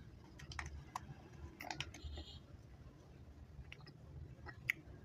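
Faint, scattered sharp clicks and smacks of a mouth chewing chewy chocolate candy close to the microphone, with a louder click near the end.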